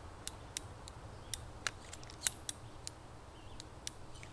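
About a dozen small, sharp metallic clicks at irregular intervals from a .22 revolver being handled as its spent cases are extracted.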